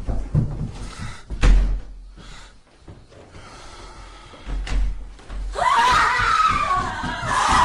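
Sound effects from a scary holophonic recording: several heavy bangs and thuds like a door slamming. About five and a half seconds in, a high, wavering voice begins.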